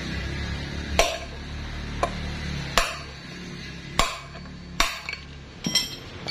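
Hammer blows driving a wheel bearing out of a Yamaha Vixion's rear wheel hub: several sharp metallic strikes, roughly one a second, unevenly spaced. The bearing already has some play.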